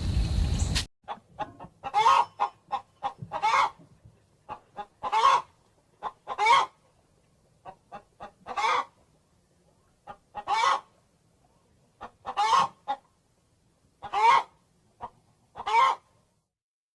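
Chicken clucking: quick short clucks mixed with longer, drawn-out calls, one burst about every two seconds. A loud, rough sound cuts off abruptly under a second in.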